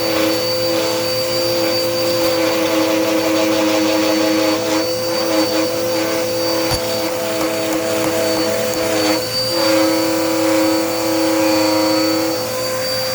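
Dirt Devil Power Max vacuum cleaner running steadily, its motor giving a high whine over a lower hum. The hum's pitch shifts briefly about nine seconds in and again near the end, as the load on the motor changes.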